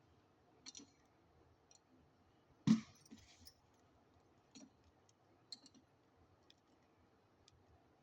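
Scattered light clicks and taps of kitchen utensils being handled, with one louder knock about two and a half seconds in.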